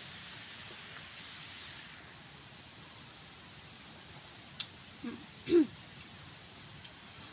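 Steady hiss of rain falling on and around the hut. A sharp click comes about two-thirds of the way in, then two short falling-pitched vocal sounds half a second apart, the second one loud.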